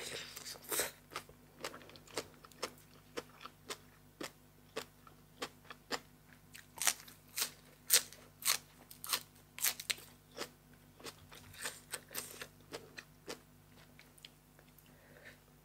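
A person chewing crisp raw food close to the microphone: a steady run of loud wet crunches, about two a second, that thins out near the end.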